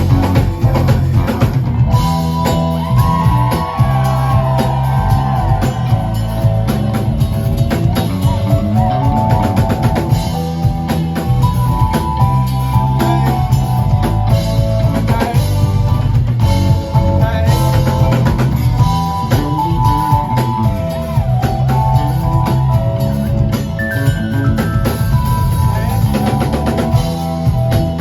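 Live band playing an instrumental passage of a pop/R&B song: drum kit keeping a steady beat under a bass line and held melodic keyboard or guitar notes.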